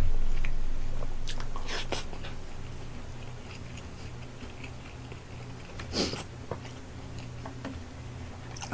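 A person chewing soondae with a full mouth, with a few soft wet smacking noises, after a sharp tap at the start, over a steady low hum.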